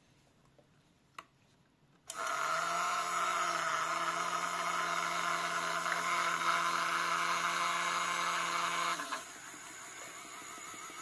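A small electric appliance motor switches on abruptly about two seconds in and runs at a steady pitch with a whine and hiss for about seven seconds, then cuts off, leaving a fainter hum.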